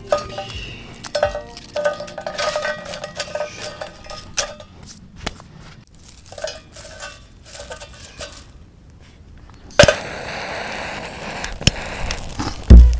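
Metal cookware and utensils clinking and scraping, with short ringing after each knock. About ten seconds in comes a sharp click, then a steady hiss, and a heavy low thump just before the end.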